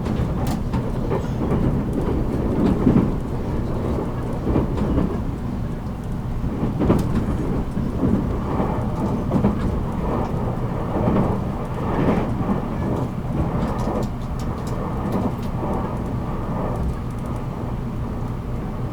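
783 series electric train running, heard inside motor car MoHa 783-13. A steady low traction-motor hum sits under the rumble of wheels on the rails, with repeated swells and short clicks.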